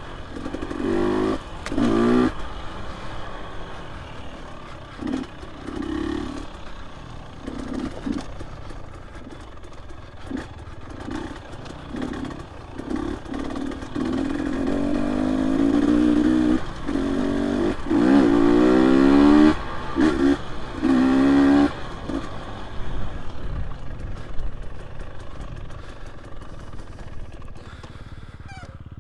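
Dirt bike engine revving up and down in short, repeated throttle bursts as it is ridden over rough trail, with rattling and knocks from the bike. The longest, highest revving comes about halfway through.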